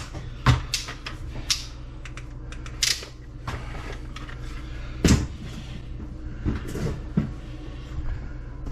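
Scattered clicks and knocks of hard objects being handled, about eight in all, the loudest about five seconds in, over a steady low hum.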